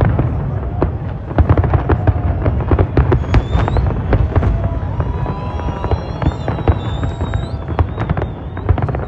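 Aerial firework shells bursting one after another: a dense run of bangs and crackles over a continuous low rumble, with a few high gliding whistles sounding among the bangs.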